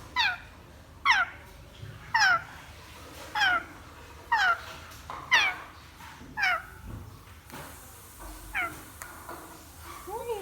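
African grey parrot giving a short call that falls steeply in pitch, repeated about once a second, the calls growing fainter near the end.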